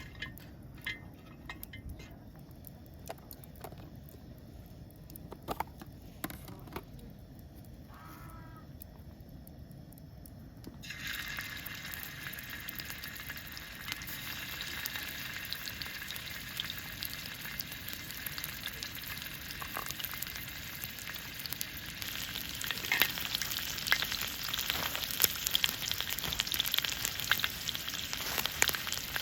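Food starts sizzling in a hot pan about a third of the way in, a steady frying hiss that continues with scattered clicks and knocks of a cooking utensil over it, louder near the end. Before the sizzle starts there are only a few light knocks.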